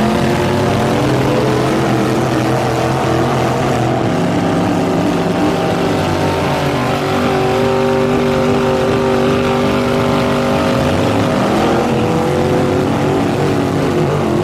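Custom mud truck's engine revved high and held at steady revs for several seconds, climbing to pitch at the start and easing near the end.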